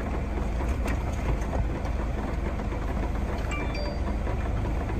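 Car engine idling, a steady low hum heard from inside the cabin, with a faint short phone notification tone about three and a half seconds in.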